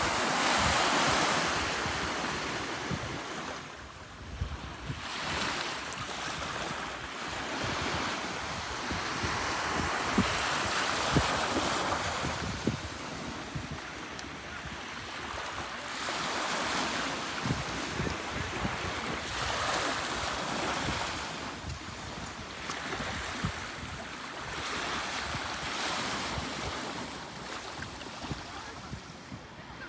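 Surf washing onto a beach, a hiss that swells and fades every several seconds, with wind buffeting the microphone in low gusty knocks.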